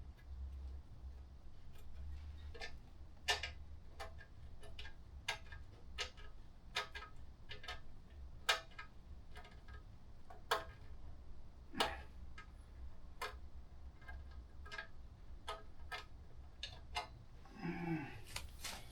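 Hand socket ratchet clicking in single, irregular clicks, about one or two a second, as a bolt is turned in short strokes. A low steady hum runs underneath.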